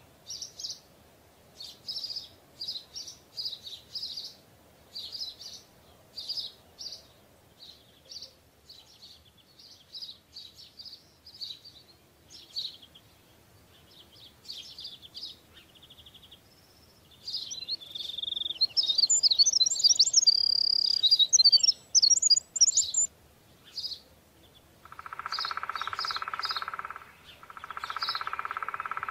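Small birds chirping and twittering in a run of short, high notes, thickest in a busy flurry past the middle. Near the end, a louder, longer sound with several steady tones comes twice, about two seconds each time.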